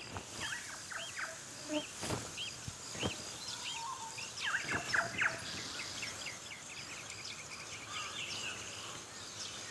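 Birds calling: a run of short, arching chirps repeated throughout, over a faint steady high hiss, with two brief clicks about two and three seconds in.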